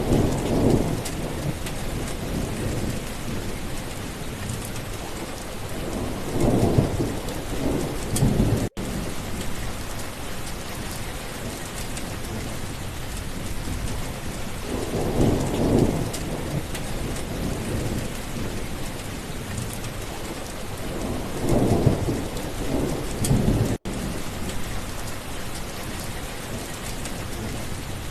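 Steady rain with thunder rolling four times, each roll a low rumble a few seconds long. The rain cuts out for an instant twice.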